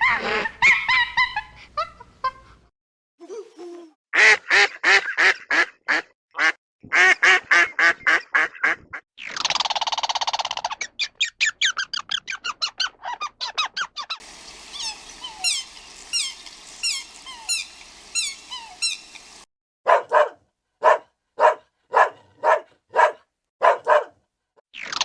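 Farm poultry calling, cut together from several separate clips. There are fast runs of short calls, one long loud call about ten seconds in, a stretch of many high rising chirps, and then single calls spaced well apart near the end.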